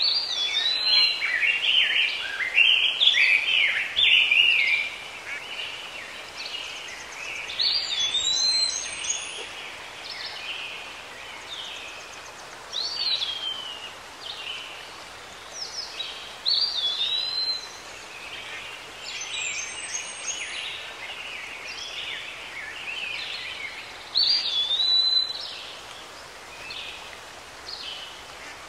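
Songbird singing: short warbled phrases every few seconds, several ending in a clear whistled note that rises and falls, over a steady background hiss.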